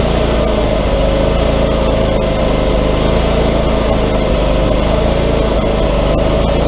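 Wood-Mizer LT40 portable sawmill's engine running steadily, with a steady whine above the engine note.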